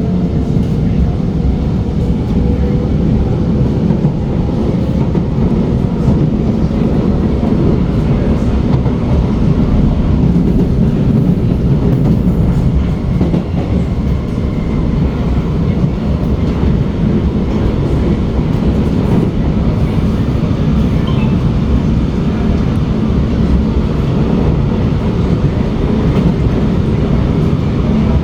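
SMRT R151 metro train running along the line: a steady, loud rumble of wheels and running gear. A faint whine rises in pitch over the first few seconds.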